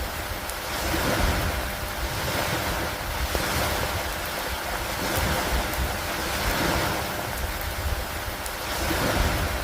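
Steady rain on an old wooden dock, thick with fine drop ticks, over a low rumble that swells and eases every couple of seconds.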